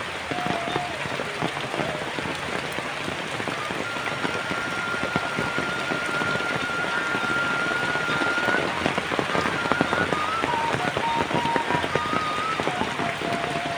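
Heavy rain falling, a dense steady hiss with many close individual drop hits. A thin whistle-like tone holds steady for several seconds near the middle, then gives way to a few shorter tones at different pitches.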